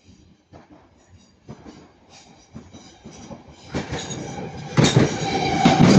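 Northern Class 323 electric multiple unit approaching and passing, its wheels clicking over rail joints, louder and faster as it nears. From about five seconds in it is loud, with a steady high tone over the clatter.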